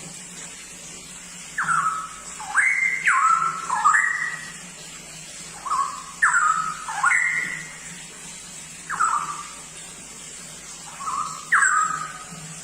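Straw-headed bulbul (cucak rowo) singing: loud phrases of rich, sliding whistled notes in short bursts, with pauses of a second or two between groups.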